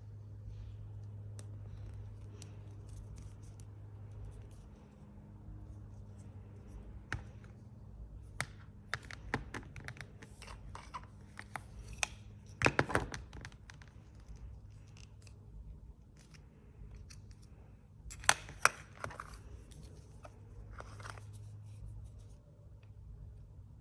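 Scissors snipping and cutting through packaging, with scattered clicks and scratchy handling noises; the sharpest snips come in clusters about halfway through and again about three-quarters of the way in, over a low steady hum.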